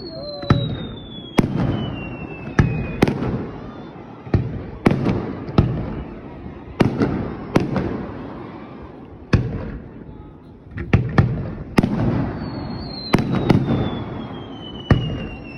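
Aerial fireworks going off in a steady run of sharp bangs about once a second, with rumbling echoes between them. Twice a long whistle falls in pitch, once near the start and again near the end.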